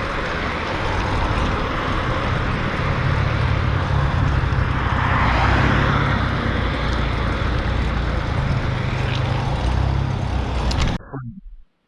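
Wind buffeting a shoulder-mounted GoPro's microphone, with road noise, while riding a fixed-gear bike at speed; it cuts off abruptly near the end.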